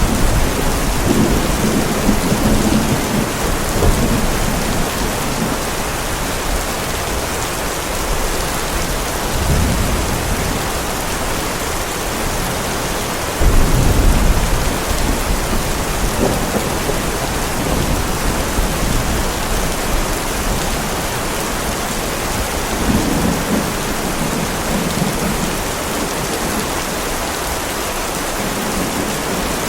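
Heavy rain falling steadily, with thunder rumbling low several times through it; one sudden, louder thunderclap comes about halfway through.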